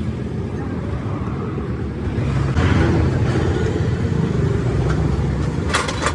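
Road traffic: vehicle engines running and passing, the low rumble swelling about two seconds in, with a few sharp clatters near the end.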